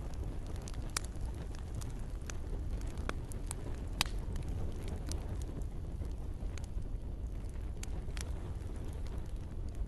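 Wood campfire crackling, with irregular sharp pops over a steady low rumble of the burning fire, the loudest pop about four seconds in. A soft hiss of rain lies underneath.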